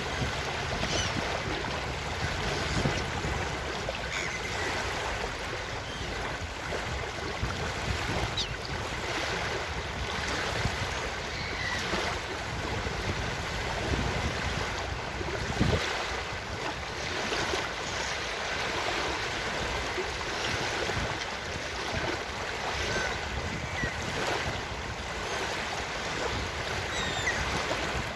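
Ocean surf washing steadily on a beach, with faint, short seagull cries now and then. A brief low thump comes a little past halfway.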